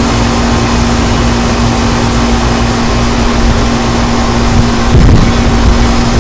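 Strong wind buffeting the microphone, a steady loud rush with deep rumbling, growing louder in a gust about five seconds in, over a steady low hum.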